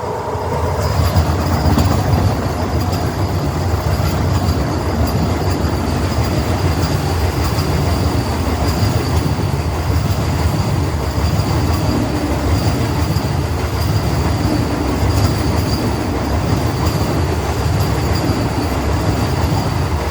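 Vande Bharat electric multiple-unit train running past at speed: a loud, sustained rush of wheels on rail with a deep rumble and a steady high whine. It swells in just after the start and holds for the whole passage.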